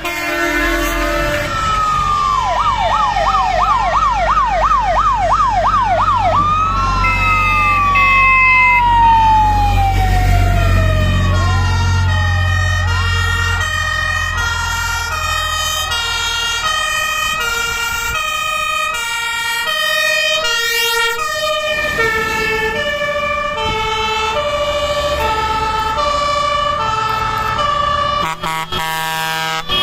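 Several fire engine sirens sounding at once as the trucks pass: slow wails, a fast yelp a few seconds in, then overlapping two-tone high-low sirens from about halfway on. A low rumble of passing trucks swells for a few seconds before the middle.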